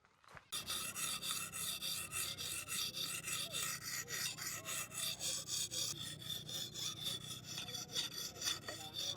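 A hand saw cutting through wood in quick, even back-and-forth strokes, starting abruptly about half a second in.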